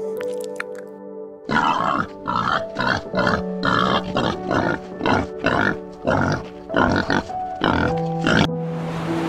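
Wild boars grunting in a rapid string, about two rough grunts a second, over soft background music with steady held tones. The grunts start about a second and a half in. Near the end they give way to the wash of surf.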